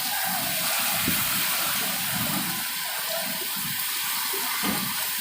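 Steady rushing noise of cyclone wind and heavy rain.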